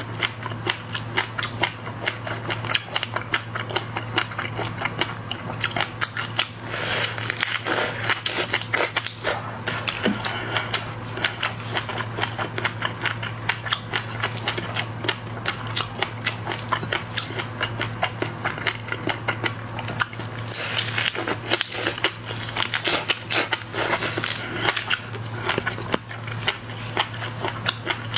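Close-miked eating of seafood: continuous biting, crunching and chewing with many quick irregular clicks, over a steady low hum.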